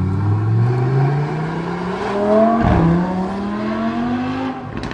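Lamborghini Huracán STO's V10 engine, breathing through an Innotech aftermarket exhaust, accelerating hard through the gears. The revs climb, fall at an upshift about two and a half seconds in with a short bark, climb again, and shift once more near the end.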